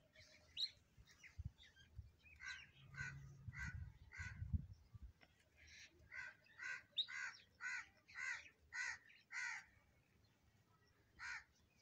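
A bird calling over and over in short calls, about two a second, then a pause and one last call near the end. A few low knocks and rumbles come in the first half.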